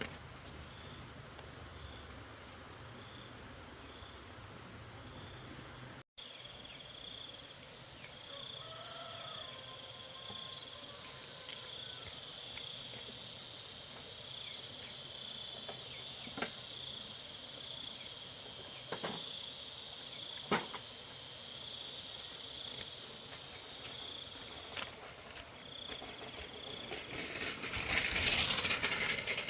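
Insects chirping in an even rhythm over a steady high-pitched whine. A few sharp clicks sound in the middle, and a short burst of rustling noise comes near the end.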